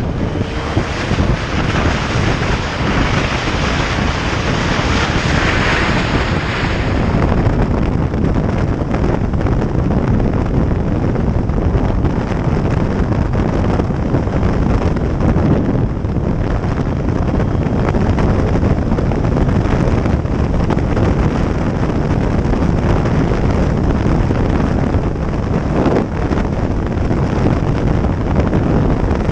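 Wind rushing over the microphone of a motorcycle under way, with engine and road noise beneath it, steady throughout; a brighter hiss rides on top for the first several seconds.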